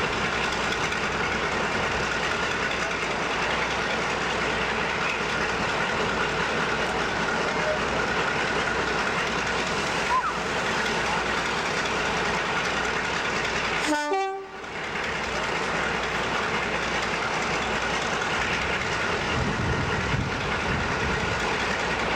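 Diesel-hydraulic locomotive running steadily, a continuous engine note with several held tones, briefly cut off about two-thirds of the way through before carrying on.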